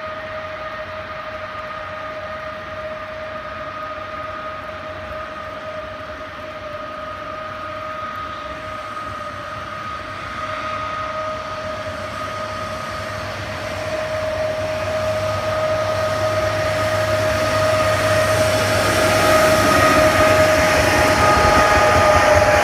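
A Pesa diesel multiple unit pulls away from the stop and approaches. It gives a steady, high two-note whine, with a deep engine drone building in the second half, and grows louder as it nears.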